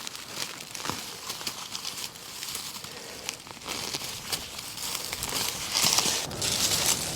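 Dry leaves and undergrowth rustling and crackling with many small snaps as wild green onions are picked, louder for a moment about six seconds in.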